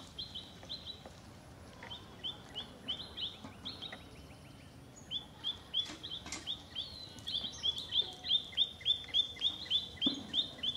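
A bird calling a long run of short, sharp chirps, each rising quickly in pitch. The chirps come in loose groups at first, then run together at about four a second and grow louder in the second half.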